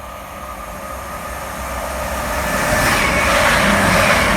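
Class 222 Meridian diesel multiple unit running through the station, its rushing wheel and engine noise growing steadily louder as it comes closer, with a low engine hum near the end.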